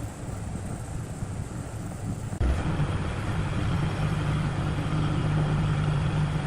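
An engine running steadily with a low hum, which changes abruptly and grows louder about two and a half seconds in.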